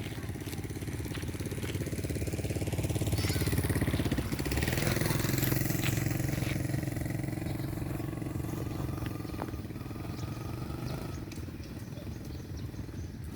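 A small engine running steadily, getting louder toward the middle and fading toward the end.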